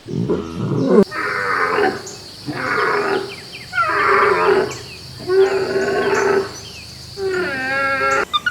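An animal calling repeatedly: about five drawn-out, wavering cries, each under a second long, with short pauses between them.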